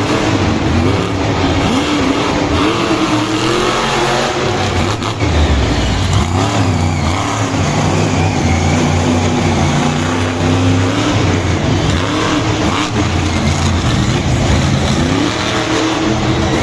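Monster truck engine revving loudly, its pitch rising and falling again and again, over a constant background roar.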